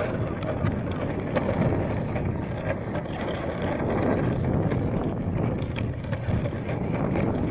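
Longboard's all-terrain wheels rolling over city pavement: a steady rumble with many small ticks from the surface.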